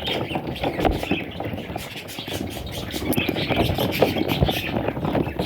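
Budgerigar chicks' raspy chirping amid dense scratching and rustling.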